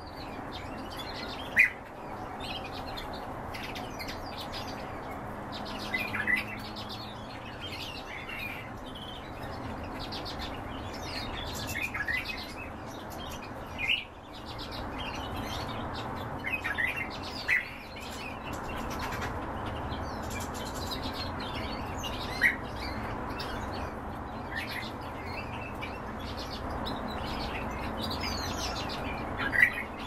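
Caged birds giving short, sharp chirps every few seconds over a steady background hum.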